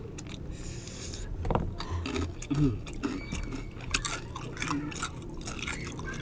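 Close-up chewing of bagnet, crispy deep-fried pork belly, with scattered sharp crackles of the crunchy skin being bitten and pulled apart.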